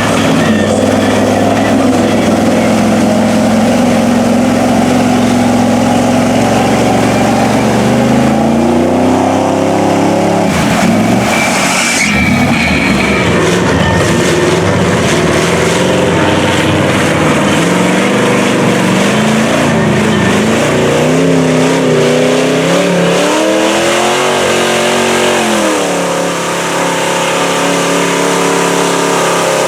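Mud-bog trail truck's engine running loud under load. It holds a steady pitch for the first several seconds, then revs up and down again and again, and settles to a steady higher rev near the end.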